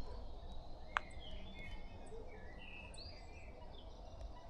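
Spring forest birdsong: several songbirds singing at once in short whistles and chirps over a faint steady background, with one sharp click about a second in.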